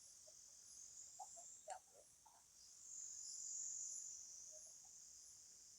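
Faint, steady high-pitched insect chorus, swelling for a couple of seconds midway, with a few soft short sounds near the start.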